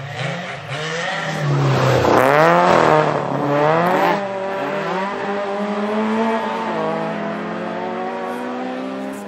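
A rally car's engine revving hard, its pitch swinging quickly up and down about two seconds in, then climbing steadily as it pulls through a gear.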